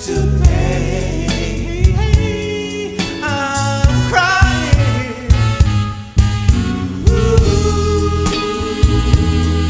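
Live soul band playing with singing: drum kit, bass and guitar under a bending lead line.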